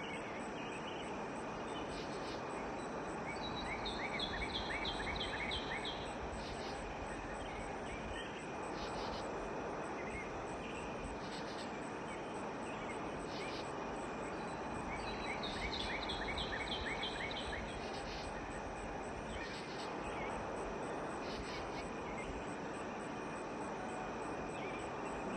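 Outdoor nature ambience: a steady rushing hiss with a high, faintly pulsing tone over it. Twice, about four and about sixteen seconds in, a bird sings a quick run of about eight chirped notes.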